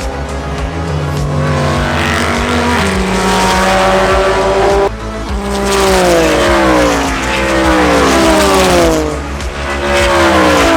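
Race car engines at full throttle: first rising in pitch with stepped upshifts, then after a sudden change a string of cars going by, each engine note sweeping down in pitch.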